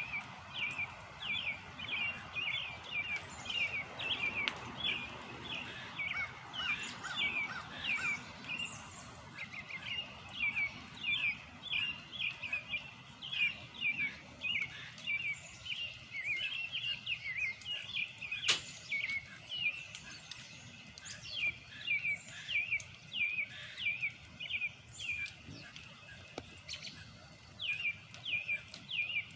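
Birds chirping, short falling notes repeated a few times a second, with a single sharp click about eighteen seconds in.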